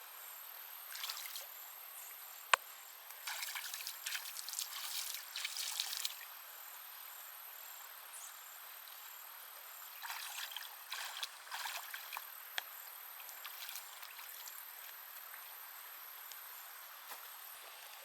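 Water trickling and splashing in short bursts, as when water is being handled or poured, with a single sharp click about two and a half seconds in.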